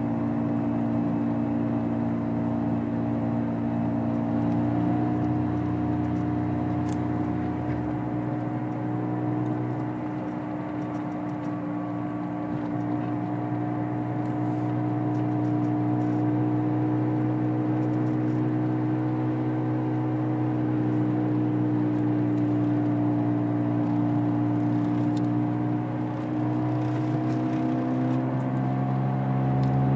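A 2003 Honda Civic on the move, heard from inside: a steady whirring drone of several held tones that drift slowly in pitch. A deeper rumble drops away about eight seconds in and returns near the end. The whir is the car's unexplained noise, which grows louder and faster with road speed whatever gear is selected.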